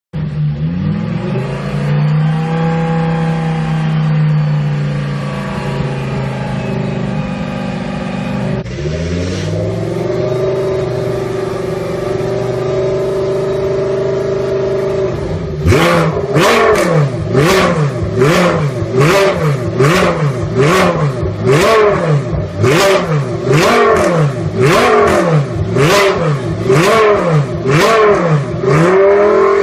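Audi R8 LMS Ultra race car's 5.2-litre V10 engine running at a steady, slowly varying speed for the first half, then revved up and down in quick throttle blips, about one a second.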